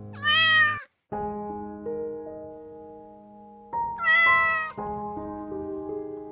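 A cat meowing twice, a short meow at the start and a slightly longer one about four seconds in.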